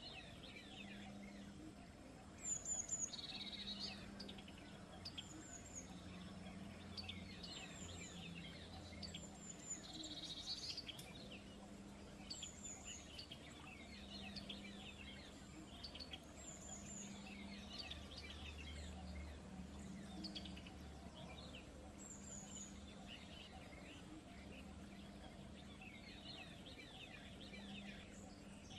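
Wild birds chirping and calling in many quick, short notes, with a louder burst of calls about three seconds in and again about ten seconds in, over a faint steady background noise.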